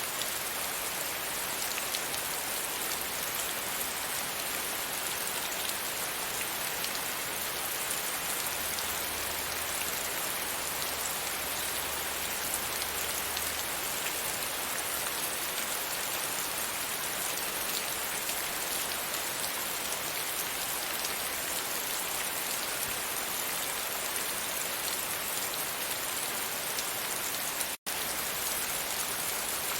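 Rain falling steadily against a window: an even hiss of drops, broken by a split-second gap near the end.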